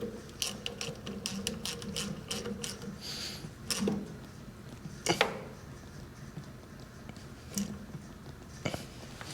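Sharp mechanical clicking, a quick run of clicks over the first few seconds, then a few separate knocks and clanks, as of metal tools being handled.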